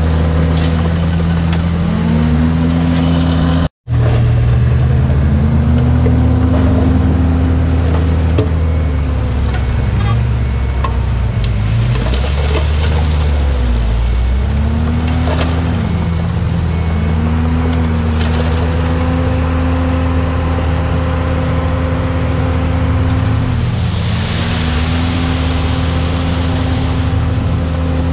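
Heavy diesel engine of a crawler bulldozer working, its revs repeatedly rising and falling with the load. The sound cuts out for an instant about four seconds in.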